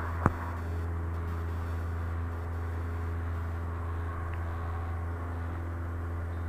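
Cessna 172's piston engine and propeller droning steadily in flight, with one sharp click about a third of a second in.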